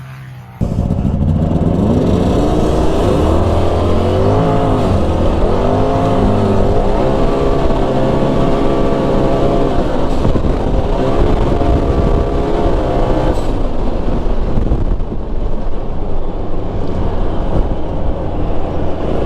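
Turbocharged twin-cylinder engine of a 2020 Polaris RZR Pro XP, with a catless sport muffler, running hard under throttle; it cuts in loudly just after the start, and its revs climb and fall again and again.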